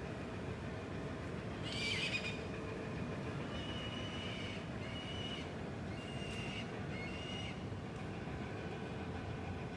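Birds calling over a steady background hiss: one louder, harsher call about two seconds in, then a run of four or five short, clear high calls.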